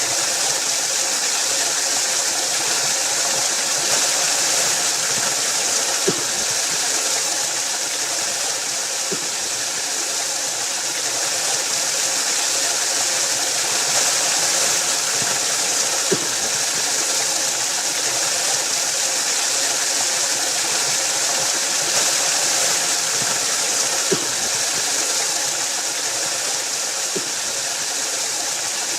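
Waterfall: a steady rush of falling water, with a few brief splashes now and then.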